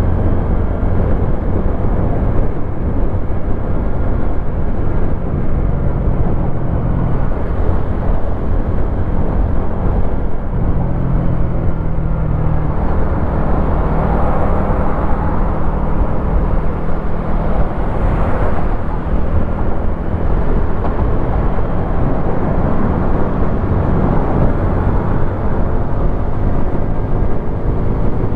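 Wolf Classic 125cc motorcycle's single-cylinder engine running under way, its note stepping up and down a few times as the revs change, with wind noise on the microphone.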